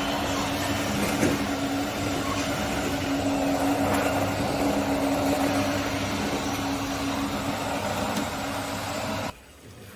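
Scale RC construction machine running, a steady motor hum over a noisy mechanical whir, which stops abruptly near the end.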